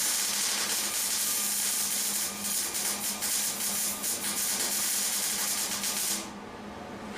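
MIG welder arc on steel roll-cage tubing: a steady crackling sizzle that cuts off abruptly about six seconds in.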